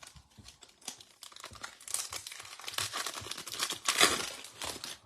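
Trading card pack wrappers being torn open and crinkled: a dense run of crackling and tearing, loudest about four seconds in.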